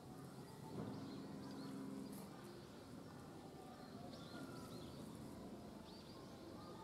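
Faint outdoor background with small birds chirping in short, quick, arching calls, in clusters about a second in, again around the middle, and more near the end.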